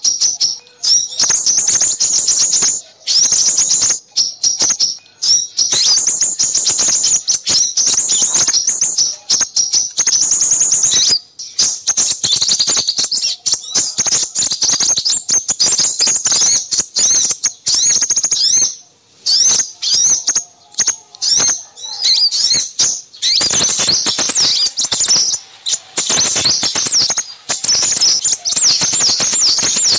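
Small birds chirping and twittering in dense, rapid high-pitched trills with brief gaps, growing busier near the end: a recorded lure call for crimson sunbirds.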